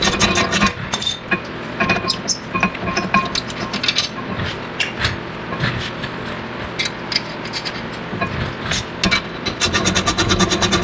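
Quick metallic clicks and clinks of hand tools on a car's brake and suspension parts over a steady hum, turning into a fast, even run of clicks near the end, like a ratchet.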